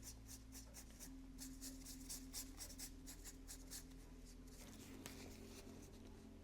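Faint, quick scratchy strokes of a paintbrush working oil paint, several a second, stopping about four seconds in and resuming briefly about a second later. A faint steady hum runs underneath.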